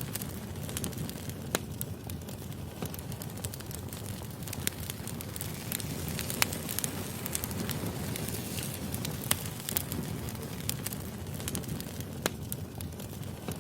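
Firewood burning: a low steady rumble of flames with irregular sharp crackles and pops.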